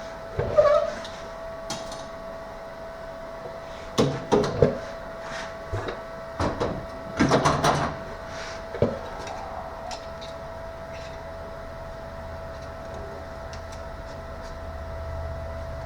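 Scattered clanks and knocks of tools and metal being handled and set down, in clusters during the first nine seconds, over a steady background hum.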